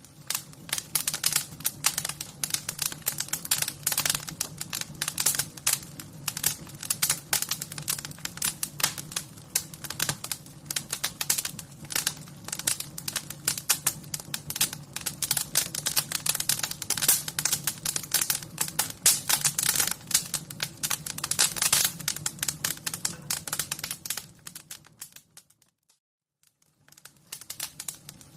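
Wood fire crackling: a dense run of irregular snaps and pops over a low steady hum. It fades out about 24 seconds in, and after a second or so of near silence the crackling starts again near the end.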